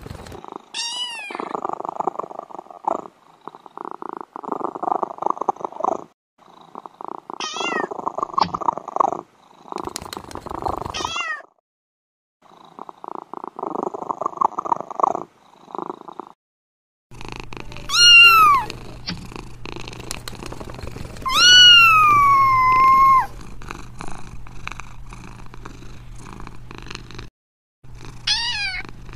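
Kitten purring in stretches broken by short pauses, with three short, high meows over the purring. Past the middle, two loud meows stand over a low hum, the second long and drawn out, and one more short meow comes near the end.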